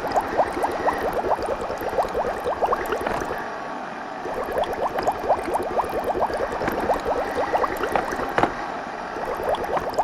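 Bosch Tassimo coffee pod machine brewing: a rapid run of gurgling, bubbling liquid sounds as hot coffee is pushed through and pours into the mug, easing off briefly a few seconds in.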